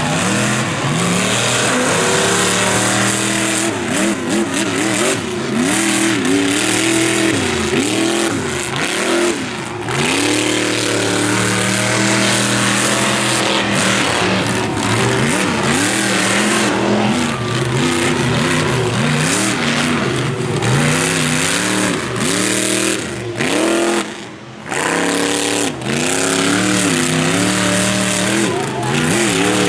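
Monster truck engine revving hard over and over, its pitch rising and falling constantly. It drops off briefly about three-quarters of the way through, then picks up again.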